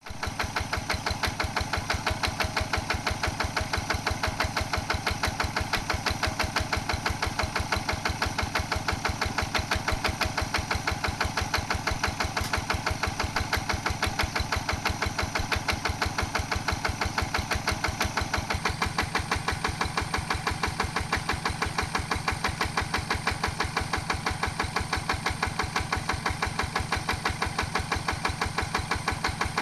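Diesel engine idling with a steady, even knocking beat, about four to five firing pulses a second.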